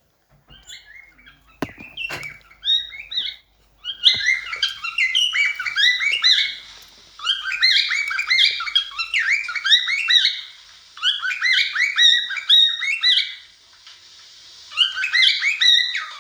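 Cockatiel singing: fast chirping, warbling phrases in four bouts of two to three seconds each, with a couple of sharp knocks about two seconds in.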